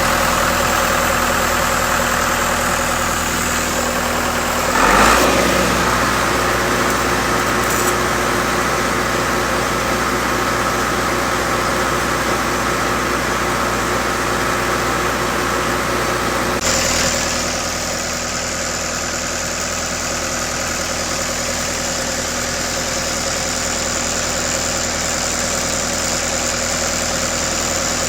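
Engine of a Lincoln SAM 400 engine-driven welder running steadily. Its note shifts suddenly about five seconds in and again around seventeen seconds in, running a little quieter after the second change.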